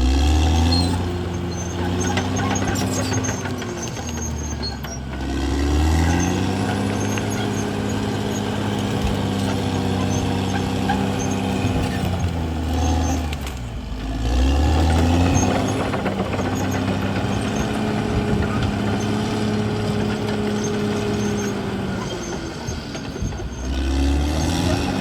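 CAT D6R XL bulldozer's diesel engine running under working load. Its pitch and level rise, hold and fall back in cycles several seconds long, surging about four times as the revs pick up and drop.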